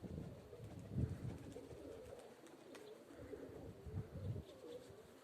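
Domestic pigeons cooing, a low wavering call that goes on through most of the stretch, with a few short low rumbles on the microphone about a second in and again near the end.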